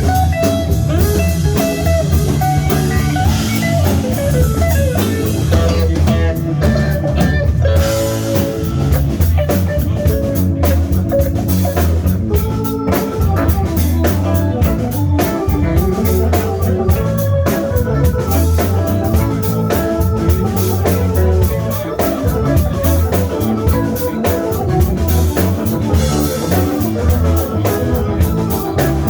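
Live band playing an instrumental passage of a soul cover: guitar over bass and a drum kit, with no singing.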